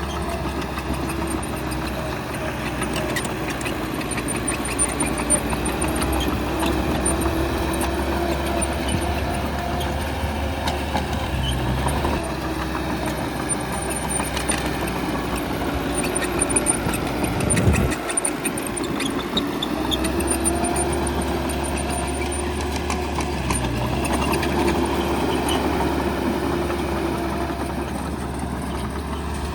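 Heavy diesel engine of earthmoving machinery running and working under shifting load, with scattered light clanks. The engine sound dips briefly about eighteen seconds in, then picks up again.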